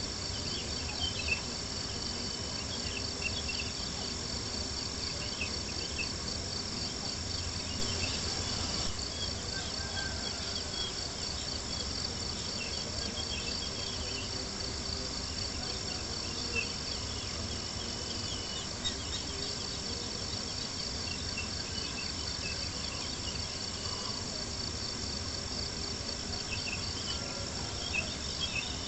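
A steady chorus of crickets chirping, with a few sharp pops from a crackling campfire scattered through it.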